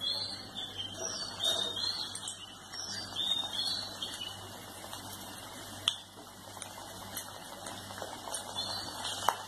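Potato cutlets frying in hot oil in a kadai: an irregular crackling sizzle as the patties go in. Two sharp clicks stand out, one about six seconds in and one near the end.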